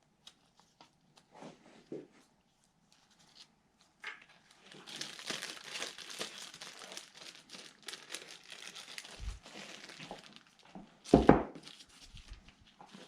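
Plastic bag crinkling and rustling as it is handled, dense for about five seconds in the middle, then a single loud thump near the end.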